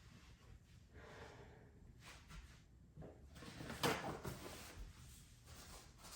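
Faint room noise with a single knock or bump about four seconds in.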